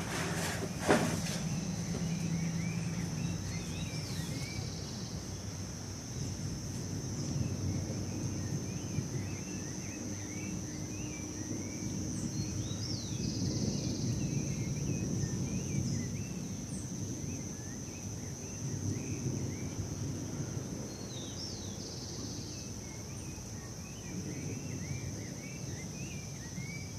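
Outdoor ambience: a steady high-pitched insect drone with birds chirping over it, above a low rumbling noise that swells and fades. A sharp knock about a second in.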